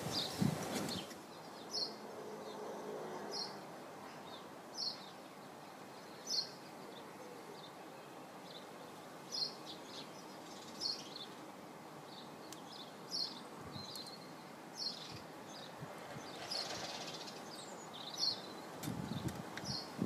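A small bird calling over and over, one short high chirp about every second and a half, against faint outdoor background noise.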